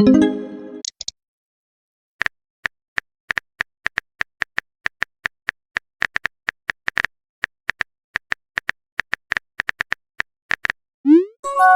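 Messaging-app sound effects: a run of keyboard tap clicks, several a second with short pauses, as a message is typed. A rising pop-and-chime message alert sounds at the start and again near the end.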